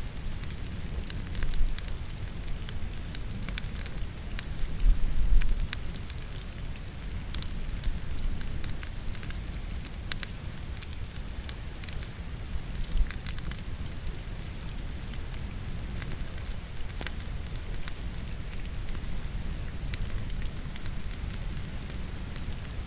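Firewood burning in a fireplace, crackling and popping with scattered sharp snaps over a steady low rumble that swells louder about five seconds in, with rain falling steadily in the background.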